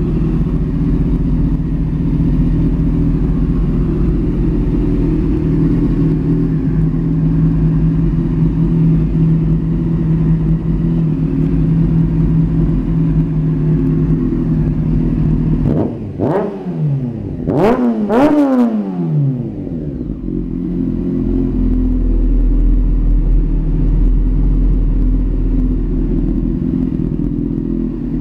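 1999 Honda CBR600F inline-four idling through a Dan Moto GP-style aftermarket exhaust, then blipped sharply a few times about two-thirds of the way through, the revs shooting up and falling straight back with some sharp pops, before it settles back to idle.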